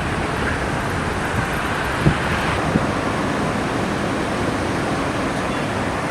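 Airbus A330 airliner's jet engines, a steady loud rush of noise, with a couple of brief knocks a little past two seconds in.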